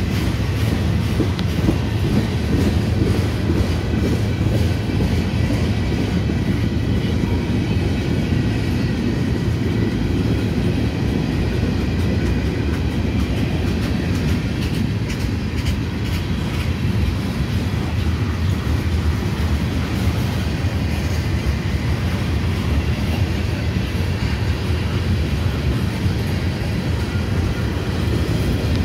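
Freight cars of a slow-moving CSX train rolling past, their steel wheels rumbling steadily on the rails.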